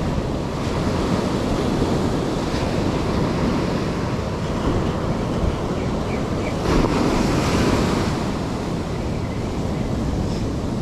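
Ocean surf breaking and washing up the shore, with wind buffeting the microphone; a wave swells louder about two-thirds of the way through.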